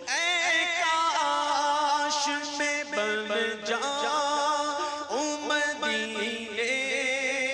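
A voice singing a devotional Urdu naat in long, wavering, ornamented melodic runs without clear words.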